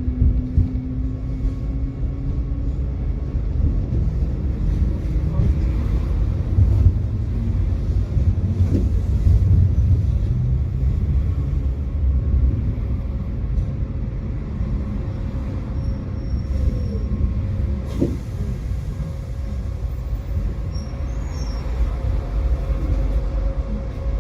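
Tram running on rails: a steady low rumble with an electric motor's whine, which falls in pitch near the start. A few short squeals and clicks come from the wheels and track.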